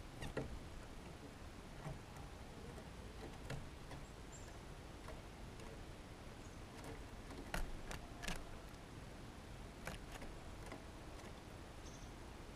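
Small songbirds at a feeder: a handful of sharp, scattered taps and clicks, with a couple of faint, short, high chirps.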